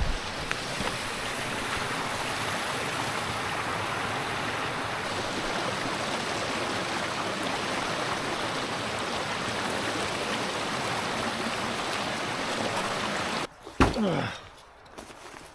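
River water rushing steadily, then cutting off suddenly near the end.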